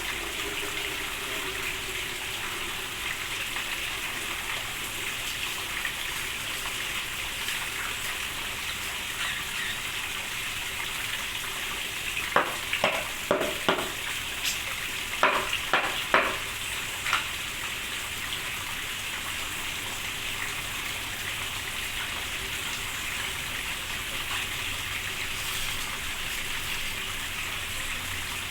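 Steady rain hissing down. In the middle comes a quick run of about eight short, loud sharp sounds.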